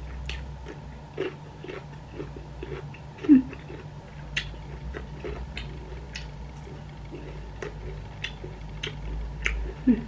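A person biting into a green bean and chewing food close to the microphone: irregular small crisp clicks and mouth noises. Two short low falling mouth sounds, the louder one about a third of the way in and another near the end.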